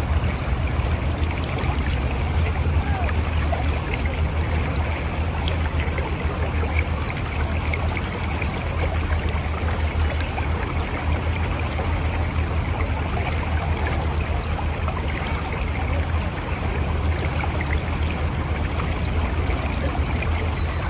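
Mountain river flowing over rocks: a steady rushing with a deep low rumble and some gurgling.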